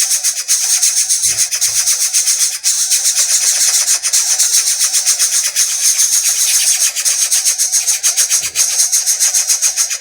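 Nestlings begging to be fed: a dense, unbroken chorus of rapid high-pitched cheeping. A few soft low thumps come in just over a second in and again near the end.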